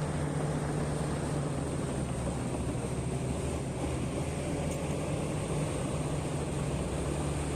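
Heavy diesel mining machine running steadily, a constant low engine hum.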